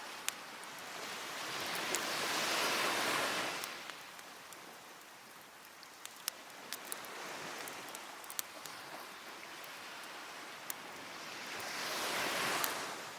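Sea waves breaking and washing up the beach, two swells rising and falling away, about two seconds in and near the end. A wood fire crackles throughout with scattered sharp pops.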